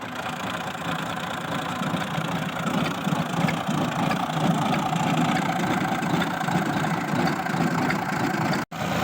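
Tractor-driven threshing machine running steadily at work, the tractor engine and the thresher's drum making one dense, continuous mechanical din. It cuts out for an instant near the end.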